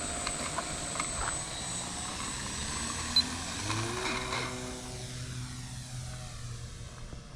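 Electric RC model airplane's motor and propeller running in flight, its pitch rising partway through as the throttle changes.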